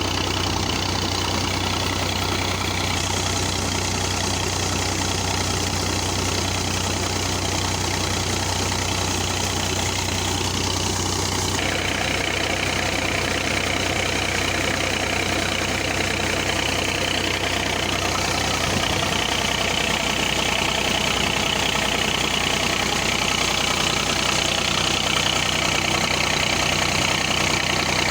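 Massey Ferguson 240 tractor's three-cylinder diesel engine running steadily while driving a tubewell pump. The sound changes in character about twelve seconds in, then stays steady again.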